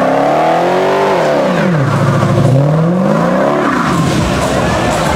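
Dodge Challenger's engine revving up and dropping back twice while it spins its rear tyres in a smoky burnout, with rough tyre noise taking over near the end.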